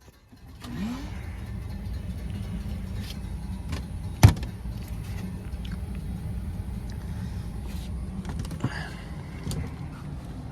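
A wet/dry vacuum starts up about half a second in, rising briefly in pitch, then runs steadily as it sucks standing water out of an air handler's overflowing secondary drain pan. A single sharp knock cuts through it a little past four seconds.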